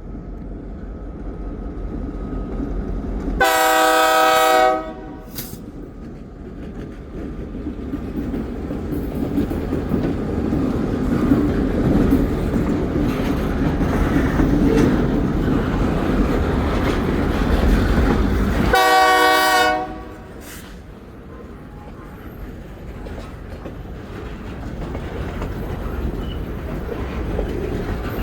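Diesel freight locomotive approaching, its multi-chime air horn sounding two blasts of about a second and a half each, roughly fifteen seconds apart. Between the blasts the rumble of the train builds steadily, then drops off after the second blast.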